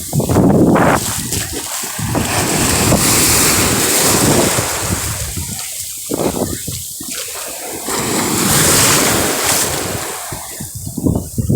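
Sea waves washing onto the shore, swelling and ebbing every few seconds, with wind buffeting the microphone.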